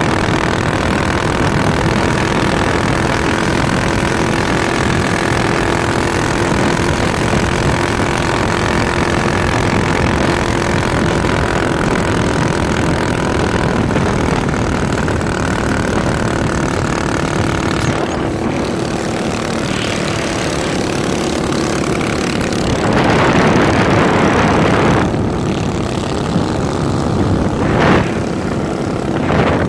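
Minibike's small engine running steadily. Bursts of rushing noise come in about two thirds of the way through and briefly again near the end.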